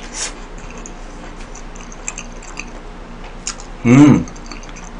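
Close-miked chewing of a mouthful of spaghetti: faint wet mouth clicks and ticks. About four seconds in comes a short, loud hum from the eater, mouth full.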